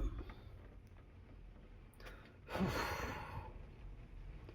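A person sighing once, a breathy exhale lasting about a second that starts about two and a half seconds in, with a short voiced start.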